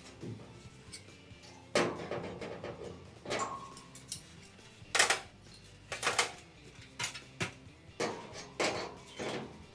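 Sharp metallic taps and clanks, about a dozen at irregular intervals with a short ring after each, from hand work with metal tools on a sheet-metal wheel-arch patch panel.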